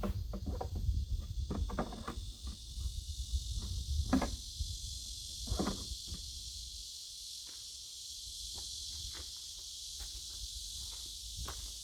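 Scattered knocks and footstep-like thuds, most in the first half, over a steady high insect chorus.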